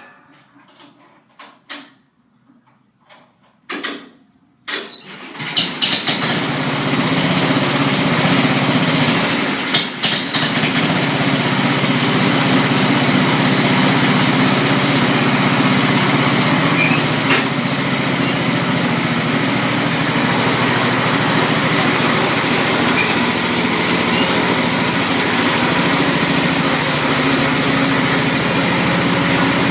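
Tecumseh small engine cold-started: a few short turnovers, then it catches about five seconds in, runs unevenly for a moment and settles into steady running.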